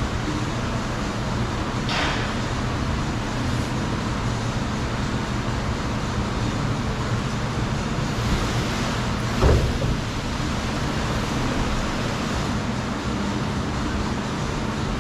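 Steady low mechanical hum with a broad hiss, and a single knock about halfway through.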